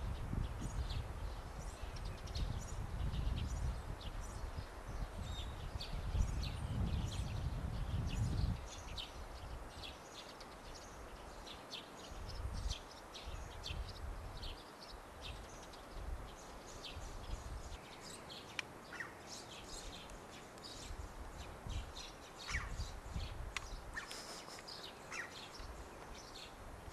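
Small birds chirping over and over with short, high notes. Wind buffets the microphone with a gusty low rumble for the first eight seconds or so, then stops abruptly.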